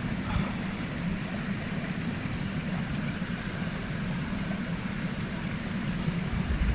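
Mountain stream rushing: a steady, unbroken low rumble of flowing water with a light hiss over it.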